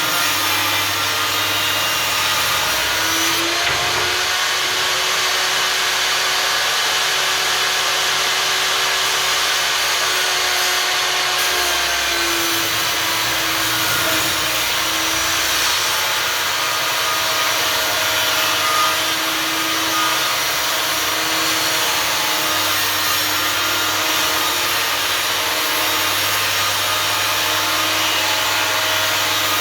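Einhell table saw running and sawing through thick wooden boards, a steady motor whine. The motor's pitch rises slightly about four seconds in and sinks back again about twelve seconds in.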